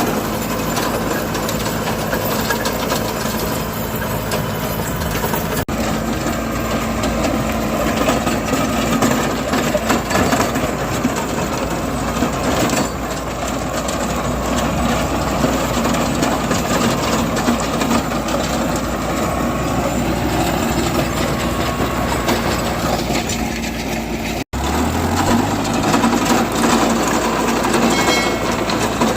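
Tractor engine running with a rotavator working, a steady dense mechanical clatter. The sound drops out for an instant about three quarters of the way through, and a low engine note rises just after.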